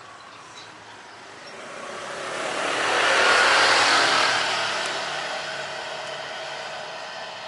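A vehicle passing by, swelling to its loudest about three and a half seconds in and then slowly fading.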